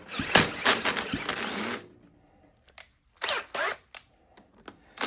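Cordless drill spinning a 150cc GPX engine over by its flywheel nut, stopping under two seconds in, followed by a few short clanks of tools on metal.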